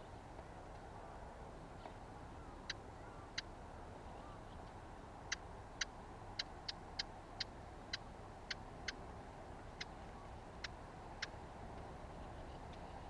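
A small songbird's sharp, dry tick calls, about fourteen of them at irregular intervals, starting a few seconds in. Under them is a steady low rumble of background noise.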